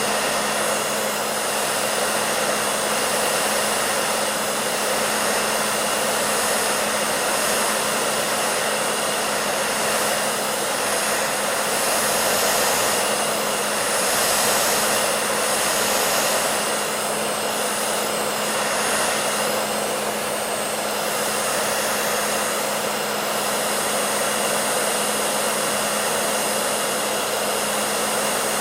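Electric hair dryer running continuously: a steady rushing of air over a constant motor hum, with slight swells in level.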